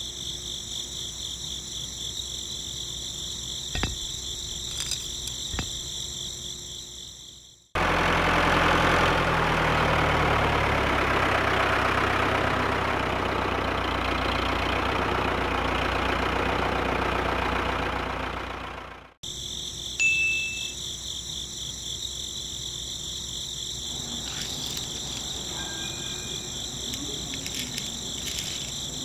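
Crickets chirring steadily. In the middle, for about eleven seconds, a homemade model tractor's small electric motor and gears run with an even mechanical noise, louder than the crickets; it starts and stops abruptly.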